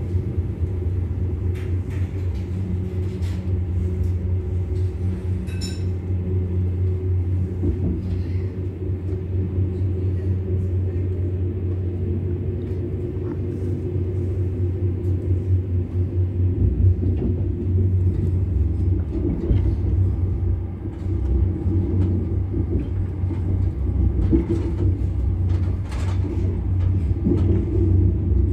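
Steady low rumble of a train running on the rails, heard from inside a passenger carriage, with occasional short clicks and knocks; the rumble grows a little louder about halfway through.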